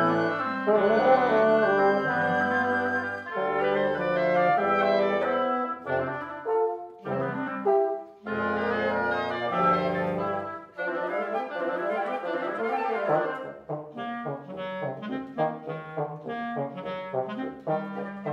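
Wind quintet of flute, oboe, clarinet, bassoon and French horn playing classical chamber music: held chords in phrases with brief breaks, turning to short detached notes about fourteen seconds in.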